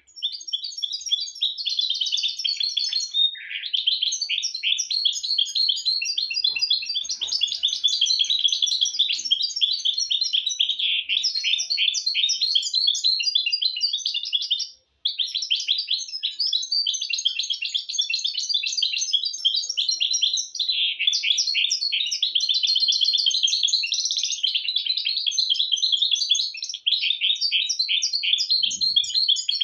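Hybrid finch (mistó) singing a long, fast twittering song of rapid trills and chirps, with a brief pause about halfway through and another near the end.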